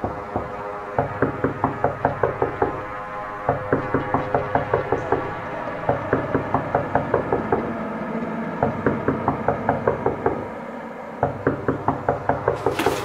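Suspense film score: runs of rapid clockwork-like ticking, about six ticks a second, over a low sustained drone that drops in and out. A short noisy burst comes right at the end.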